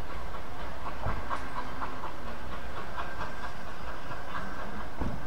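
Steam-hauled vintage passenger train moving away over the rails: a steady low rumble with many light clicks and knocks from the carriage wheels, and a louder knock about a second in.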